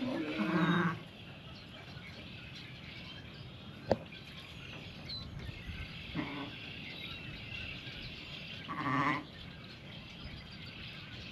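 Sheep bleating: three short bleats, one at the start, one about six seconds in and one about nine seconds in, with a single sharp click about four seconds in.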